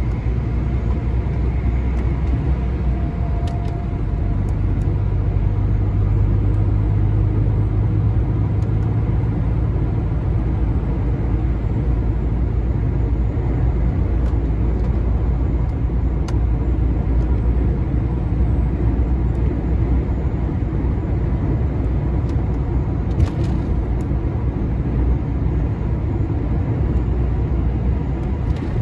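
Lorry heard from inside the cab while driving: a steady low engine drone and road rumble, with one short knock about two-thirds of the way through.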